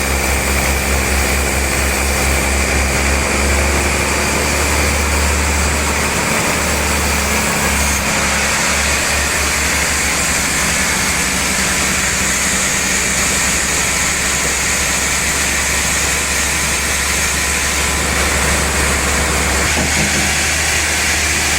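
Sawmill machinery running steadily, a constant low hum under a high hiss while a trembesi log is sawn.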